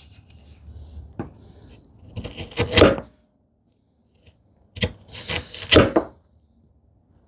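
Chisel scraping along the wall of a wooden mortise: two rough strokes about a second each, one about two seconds in and one about five seconds in, with a light tap before the first.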